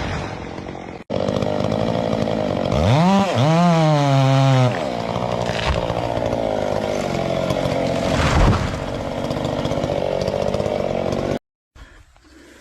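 Gasoline chainsaw running at high speed, cutting into wood. Its pitch rises and wavers for a couple of seconds around three seconds in, then holds steady. The sound breaks off briefly about a second in and cuts off abruptly near the end.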